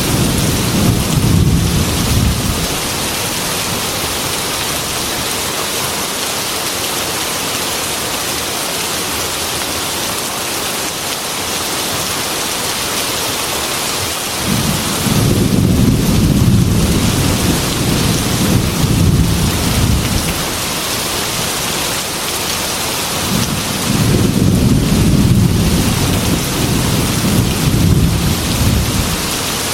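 Heavy rain falling steadily, with low rolling thunder: one rumble fading out in the first couple of seconds, a long one starting about halfway through, and another near the end.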